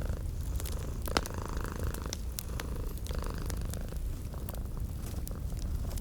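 Domestic cat purring steadily and close, with a wood fire crackling and popping; one sharper pop about a second in.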